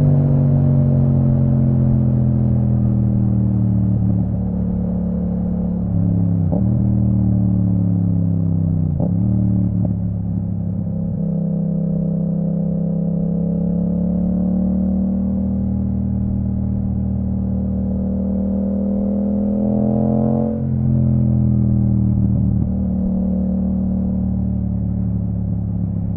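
2022 Yamaha MT-07's 689 cc parallel-twin engine through an Akrapovic full titanium exhaust with the dB killer removed, heard while riding. The revs fall, jump up sharply twice, about six and nine seconds in, run fairly steady, then change quickly with a short dip in loudness about twenty seconds in.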